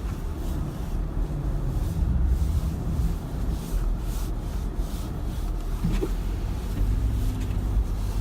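Steady low rumble of a running car engine.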